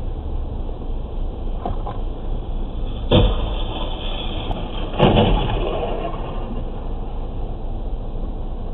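Car moving with steady road and engine rumble, then two heavy impact thuds about two seconds apart, the second with a brief rattling tail: a vehicle collision.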